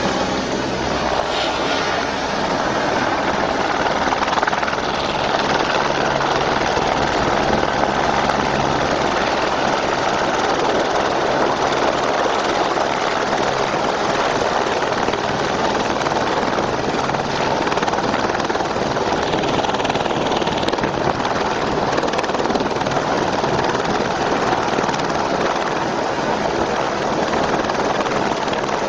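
Firefighting helicopter running, a steady rotor and engine noise that holds level throughout.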